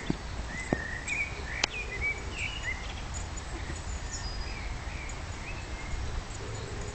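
Small birds chirping in short, repeated calls over a steady low outdoor rumble, with a few sharp clicks in the first two seconds.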